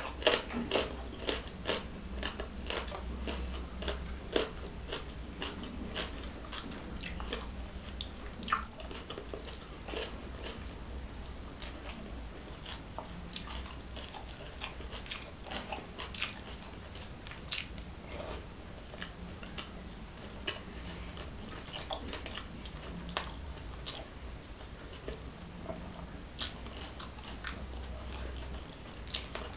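Close-miked chewing and mouth sounds of a person eating rice and egg curry by hand. Many small wet clicks and smacks come throughout, with a sharper one right at the start, over a faint steady low hum.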